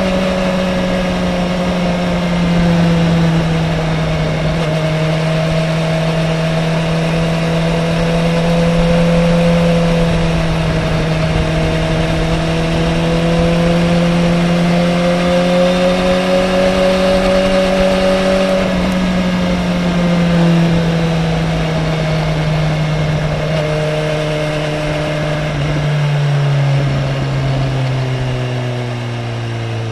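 Sport motorcycle engine running hard at speed, heard from on board the bike, its pitch drifting gently up and down as the throttle changes. Near the end the pitch falls as the bike slows.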